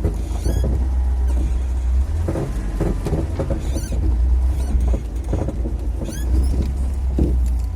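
Front suspension of a VAZ 2101–07 Zhiguli squeaking as the steering wheel is turned while manoeuvring: a few short, high, rising squeaks over the low running of the car, which the owner takes for worn ball joints.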